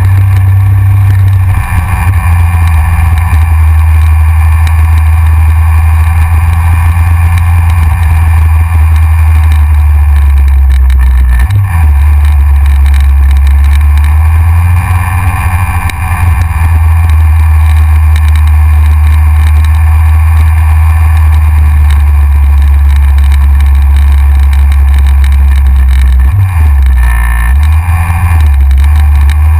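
Yamaha XJR inline-four motorcycle riding on the road, its engine running under heavy wind rumble on a front-mounted action camera's microphone. The low rumble shifts briefly about midway and again near the end.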